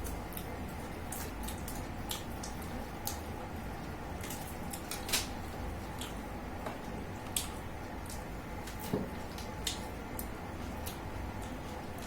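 Quiet eating sounds: scattered small clicks and soft squishes of people chewing and pulling apart a whole tandoori chicken by hand, over steady low background noise.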